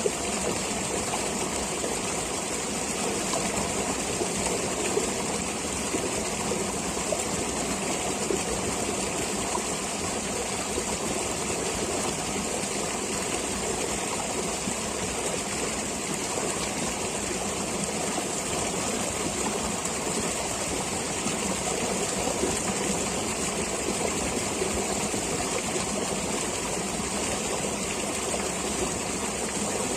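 Flowing stream: a steady, unbroken rush of running water.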